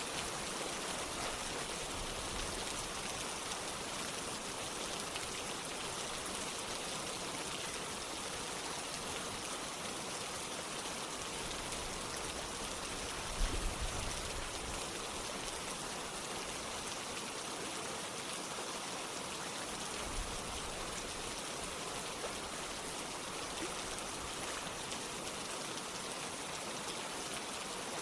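Steady rain and running water, an even hiss. A brief low thump rises above it about halfway through.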